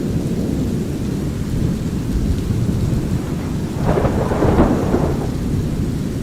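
Thunderstorm soundscape: a steady low rumble of brown noise and rain, with a crack of thunder rolling in about two thirds of the way through, the loudest moment.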